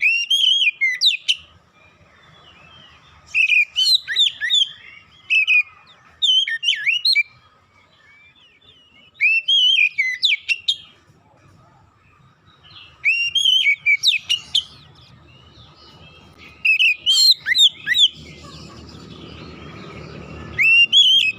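Oriental magpie-robin (kacer) singing: about seven short bursts of quick, varied, sweeping whistled phrases, one every few seconds, with a faint steady tone underneath.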